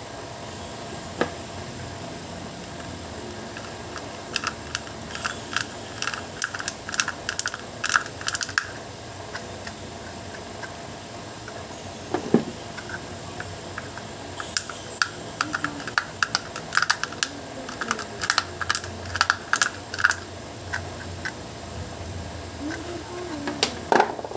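Light, quick clicks and taps, several a second, in two runs of a few seconds each, with a single louder knock between them.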